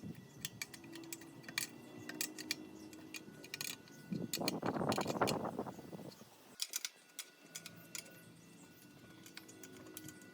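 Light metallic clicks and taps of small parts being handled, with a louder rushing noise for a second or two about four seconds in.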